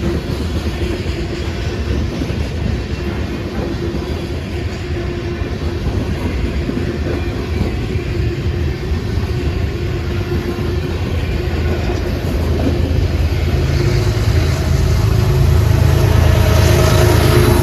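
Freight train rolling by on the track, a steady rumble of cars passing with a held hum. Deeper rumble builds and gets louder over the last few seconds.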